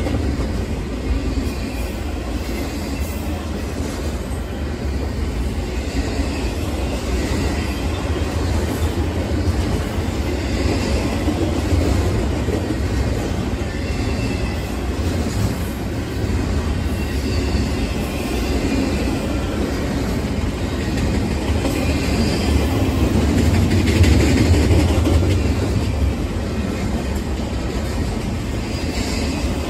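Double-stack container train's well cars rolling past at speed: a steady, loud rumble of steel wheels on rail, with faint high wheel squeals now and then. It grows a little louder about three-quarters of the way through.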